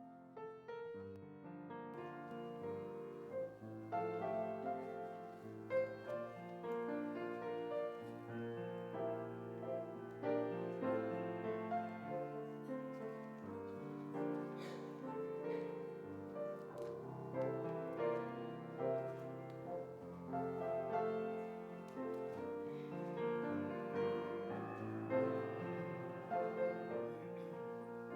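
Soft, slow piano music with held chords, played during a time of quiet reflection in a church service.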